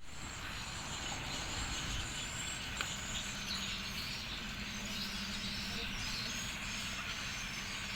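Outdoor rural ambience: insects and birds chirping over a steady background noise, with a faint low motor hum about midway and a single small click.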